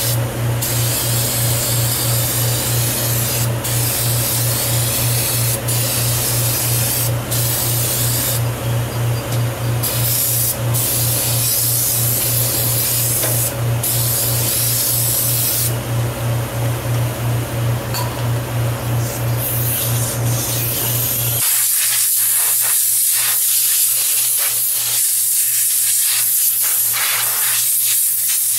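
Compressed air hissing from an air nozzle as a lawn mower's dirty air filter is blown out, with short breaks between blasts. A steady machine hum underneath stops suddenly after about twenty seconds, and the hissing carries on louder.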